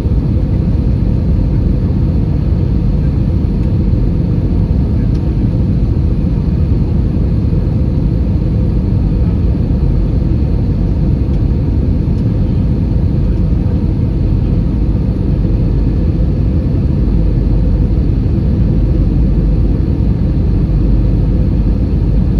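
Steady low roar inside the passenger cabin of an Airbus A320 in flight: engine and airflow noise, even throughout, with a faint steady whine above it.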